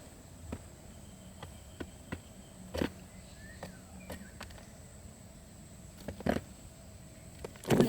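Scattered clicks and rustling knocks with a few faint, short chirping calls, and a cluster of louder knocks near the end.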